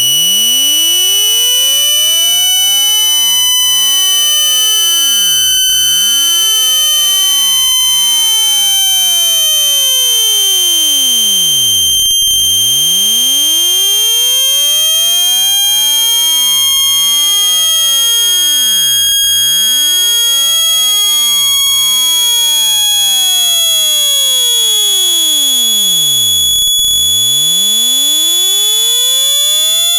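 Electronic speaker-cleaning tone: a loud, steady, high-pitched beep that creeps slowly upward in pitch, played to vibrate water out of a phone speaker. It sounds like a fire alarm.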